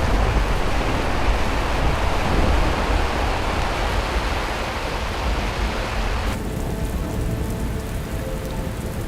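Heavy rain falling steadily, with a deep rumble underneath. About six seconds in, the rain abruptly turns duller and soft music tones come in faintly.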